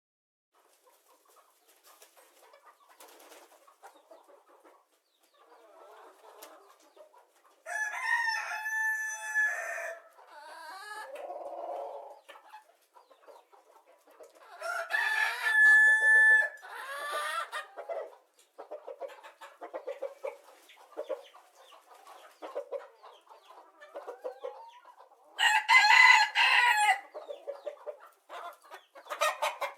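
Rooster crowing three times, each crow a long pitched call of about two seconds, with softer scattered clucking in between.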